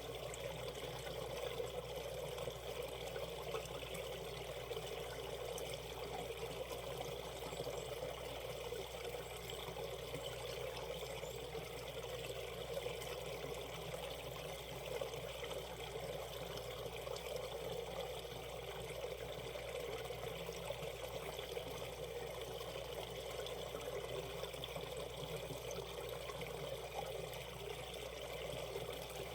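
Mountain valley stream: water trickling and splashing over rocks in a steady, unbroken rush.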